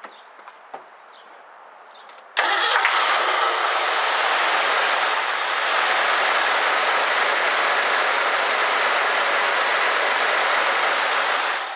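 1984 Ford Mustang GT350's engine catching on starting fluid about two seconds in, running steadily and loudly for about nine seconds, then cutting out. The owner takes this as a sign the engine isn't getting fuel and wonders whether the fuel pump is working.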